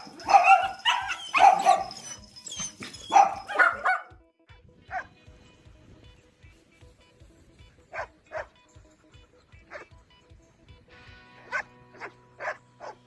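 A puppy barking: a quick run of loud barks in the first four seconds, then single barks every second or few. Background music with a steady beat plays underneath.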